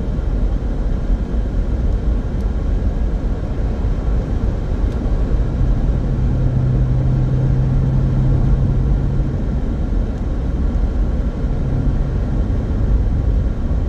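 Road and engine noise inside a small car driving at a steady speed, with a low steady hum that comes in for a few seconds midway.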